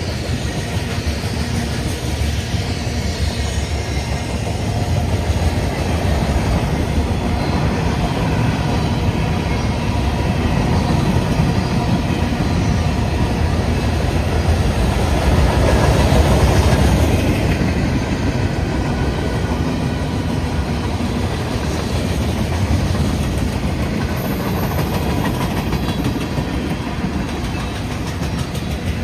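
Freight train rolling past on the rails: a steady running noise with the clickety-clack of the wheels, getting louder for a few seconds around the middle.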